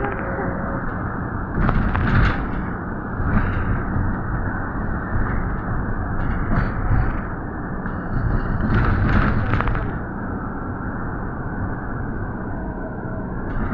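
City street ambience: a steady rumble of road traffic with several vehicles passing, the loudest pass about nine seconds in.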